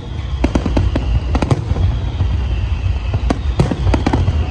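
Aerial fireworks display: clusters of sharp crackling bangs over a continuous low rumble.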